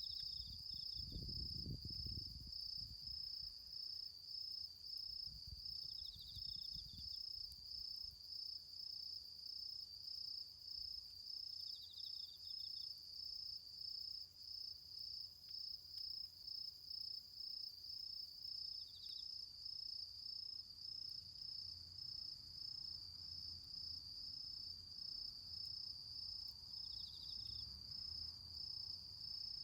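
Autumn crickets singing: one high-pitched trill pulses steadily, while another insect adds a short run of chirps every six seconds or so. A faint low rumble comes and goes underneath, near the start and again toward the end.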